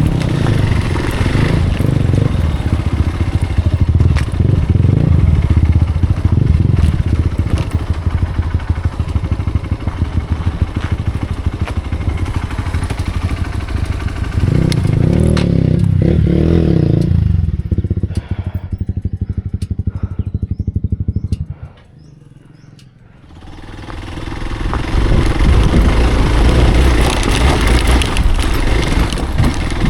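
Hero Xpulse single-cylinder motorcycle engine running under load on rough ground, with a surge in revs about halfway through. Near the end the engine sound falls away to a brief lull, then builds back up.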